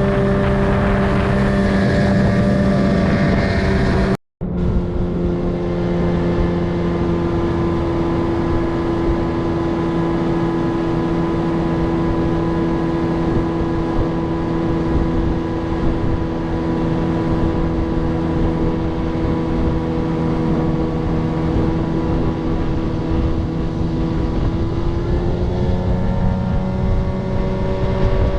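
Boat's outboard motor running at cruising speed with a steady engine note. After a brief break about four seconds in, the note settles a little lower, then rises in pitch near the end.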